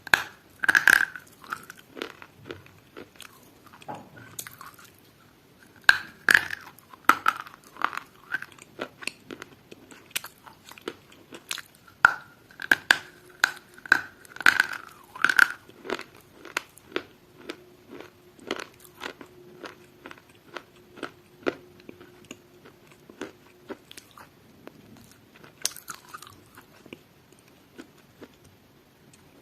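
Close-up sounds of someone biting and chewing crunchy food: irregular, sharp crunches, loudest in clusters about a second in, around six seconds and from about twelve to sixteen seconds, then sparser and quieter chewing near the end.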